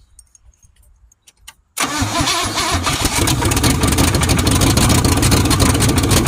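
Engine with open exhaust manifolds and no exhaust pipes fitted starting about two seconds in, after a few faint clicks, then running loud and steady.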